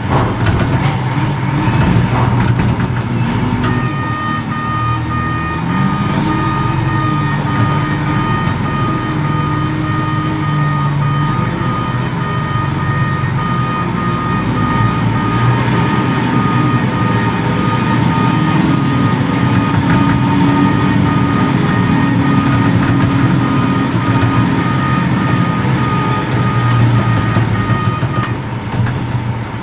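Reach stacker's diesel engine running, its pitch rising and falling as it is revved while working containers. A steady high tone sounds from about four seconds in until near the end.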